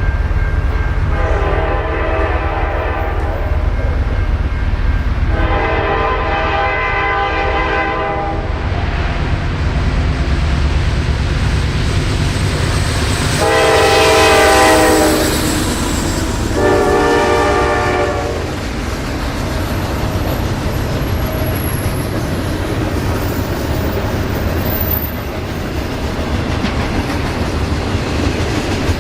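Diesel locomotive horn sounding four blasts over the steady rumble of a train rolling on the rails. The first two blasts are long, and the third is the loudest.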